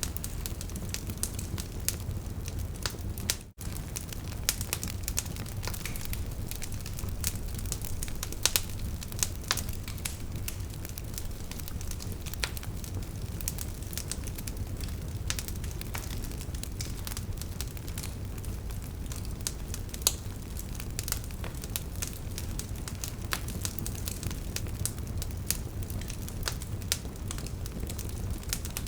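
Burning wood logs crackling: frequent, irregular sharp pops and snaps over a low steady rumble of the flames. The sound drops out for an instant about three and a half seconds in.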